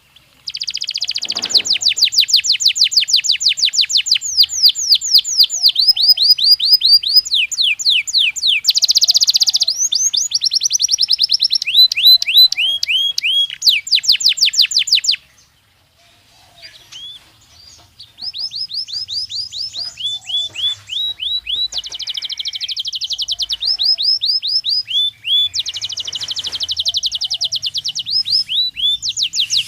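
Belgian canary singing: long, fast trills of repeated high notes, many of them sliding downward, broken by a pause of a few seconds about halfway through before the song starts again.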